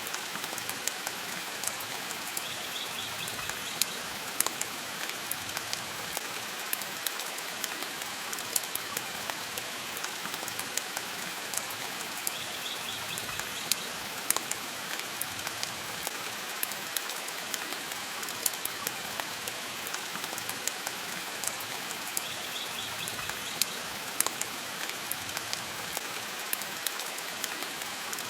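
Steady rain hiss mixed with the sharp crackles and pops of a wood fire burning in a fireplace. A faint, brief high chirp comes three times, about ten seconds apart.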